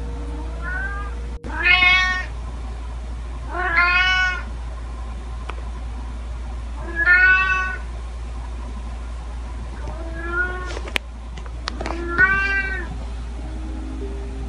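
Grey-and-white domestic cat meowing again and again, about six calls spaced a couple of seconds apart, some loud and a couple soft. A few sharp clicks come between the last calls, over a steady low hum.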